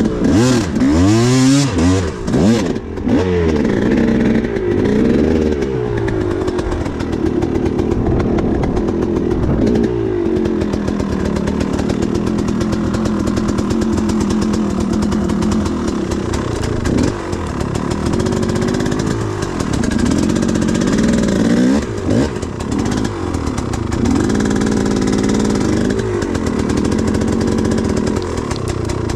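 Enduro motorcycle engine revving up and down again and again as it runs, with steadier stretches between the blips.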